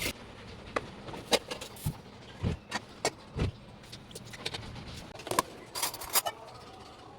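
Irregular light clicks and knocks of objects being handled, with a few duller thumps about two and a half and three and a half seconds in.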